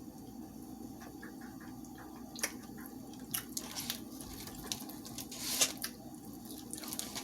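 A person chewing crispy fried chicken up close: irregular clicks and crunches starting about two and a half seconds in, over a steady low hum.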